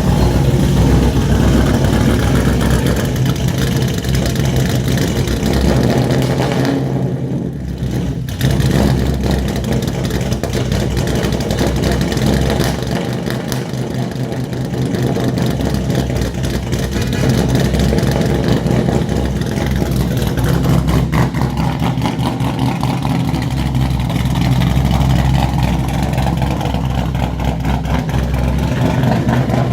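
2017 Mustang GT's 5.0 V8 idling through a straight-piped exhaust with long-tube headers and no cats, mufflers or resonators, a loud, steady deep exhaust note.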